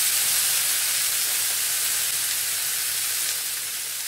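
Chopped tomato and spice masala sizzling steadily in a frying pan as it sautés, fading slightly toward the end.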